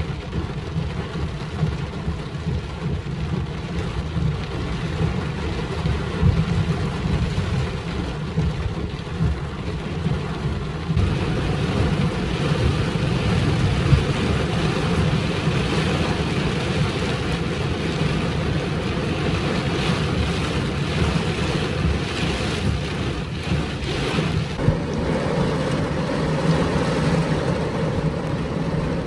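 Torrential rain pouring down, heard from inside a vehicle: a steady hiss over a low rumble, growing heavier about eleven seconds in.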